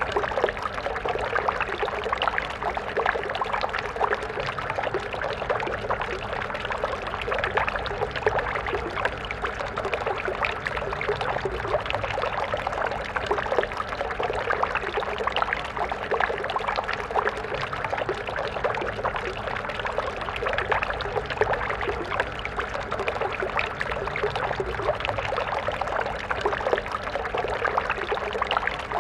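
Stream water flowing and splashing in a steady, bubbling rush.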